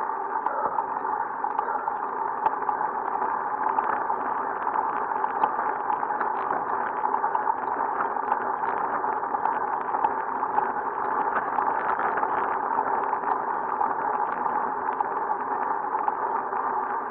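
Steady rushing noise of a bicycle on the move: wind over the microphone and tyres on the road.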